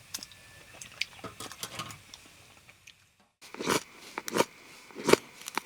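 Crisp food being bitten and chewed: a run of sharp crunches and clicks, with a sudden drop to silence about three seconds in and louder crunches after it.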